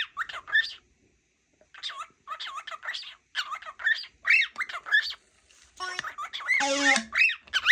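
Cockatiel chattering into a microphone: a rapid run of short whistled chirps that glide up and down, with a pause about a second in, and a harsher, buzzier call near the end.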